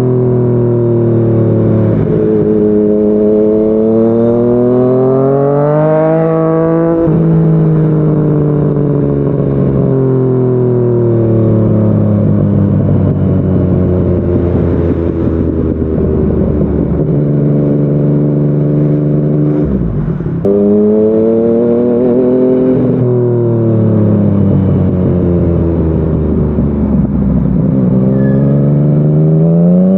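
Yamaha MT-09's inline three-cylinder engine through a Yoshimura R55 slip-on exhaust while riding. The engine pitch climbs under throttle, drops sharply at a gear change about seven seconds in, holds steady while cruising, then rises and falls again several times as the rider accelerates and backs off.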